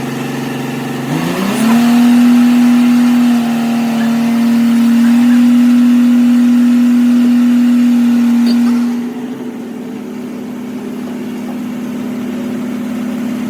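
Air impact wrench running free with its trigger held, a steady pitched buzz that rises in pitch about a second in, then holds steady; about nine seconds in it drops to a quieter steady run.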